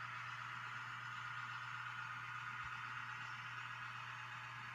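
N-scale model train running on the layout, led by a DCC sound-equipped Broadway Limited E6A/B diesel: a steady low hum with an even hiss above it.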